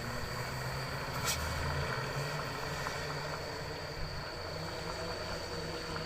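Overloaded dump truck crawling down a steep grade: the diesel engine runs low and steady while its brakes squeal with a thin, steady high-pitched tone. A sharp tick comes about a second in.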